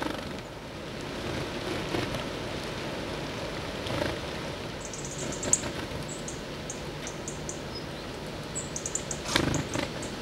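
Small wild birds at a feeder: runs of short, very high chirps from about halfway through, over a steady outdoor hiss, with a few sharp knocks and taps.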